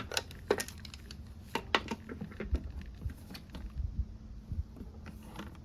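Irregular light clicks, taps and knocks of hands handling parts and containers on a workbench, over a faint steady low hum.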